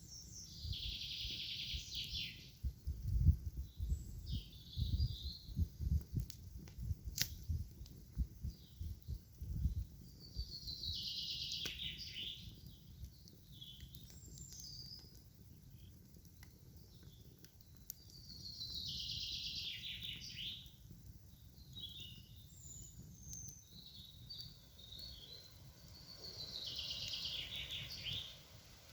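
Songbird singing the same trilled phrase four times, each about two seconds long and falling in pitch toward the end, repeated about every eight seconds. Between about three and ten seconds in there are low thumps and rumbles underneath.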